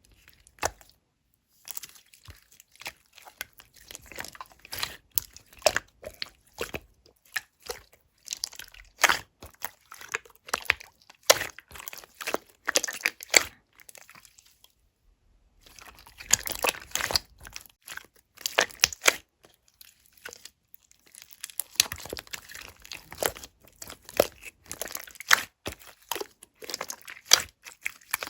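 Clear slime being squished and pressed by hand: a dense run of small crackling pops and clicks from air caught in the slime, broken by two short pauses.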